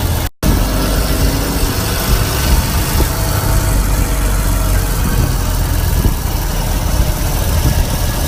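Sidecar motorcycle's engine running steadily, a dense low rumble heard from the sidecar. The sound drops out briefly just after the start.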